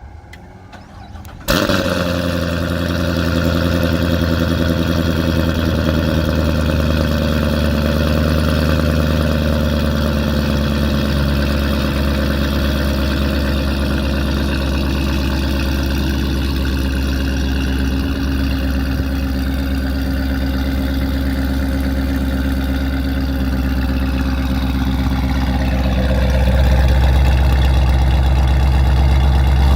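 2016 Corvette Stingray's 6.2-litre LT1 V8, fitted with Dynatech long-tube headers and an aftermarket exhaust, cold starting: it catches suddenly with a loud burst, then settles into a steady fast idle that eases slightly lower in pitch over the next ten seconds. The low exhaust rumble grows louder near the end.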